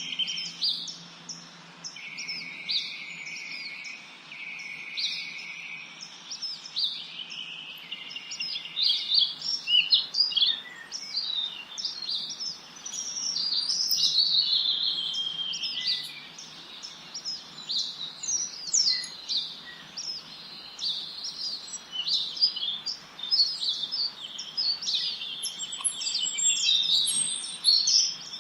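Several songbirds singing at once: a busy chorus of quick high chirps, whistles and trills that grows thickest about halfway through.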